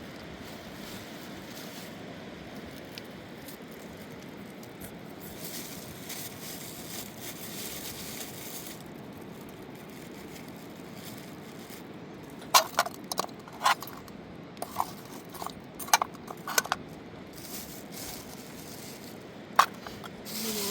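Steady rushing background noise; from a little past halfway, a string of sharp, irregular clinks and knocks of hard objects striking each other.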